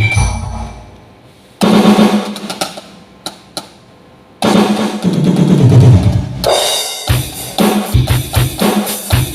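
Electronic drum sounds from a Roland SPD-11 percussion pad played through a stage PA. Two single big hits, about one and a half and four and a half seconds in, have a low pitch that slides downward as they die away. From about seven seconds a steady drum-kit beat with kick and snare follows.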